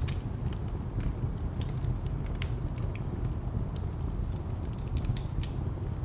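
Wood fire crackling with irregular sharp pops over a steady low rumble of distant traffic.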